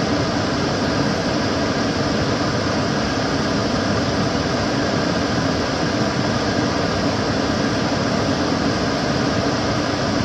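Kitchen cooker hood's extractor fan running steadily: an even rush of air with a faint low hum.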